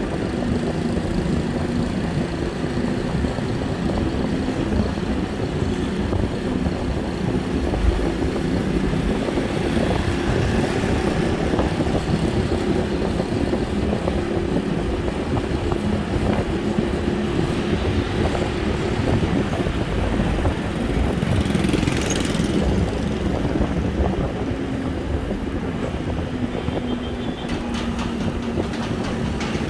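Road riding noise: an engine holding a steady pitch, over continuous low wind and road rumble. About 22 seconds in, a short hiss rises and falls.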